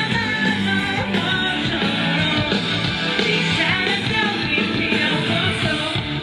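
Live rock-style band music with a male lead vocal, played at concert volume.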